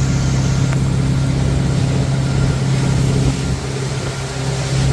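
Motorboat engine running steadily under way, its drone over a constant rush of wind and water; the sound drops back for a moment about three and a half seconds in, then comes back up.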